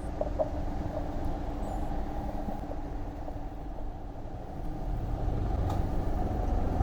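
Road traffic: a steady motor-vehicle hum and rumble, growing louder from about five seconds in as a vehicle draws closer.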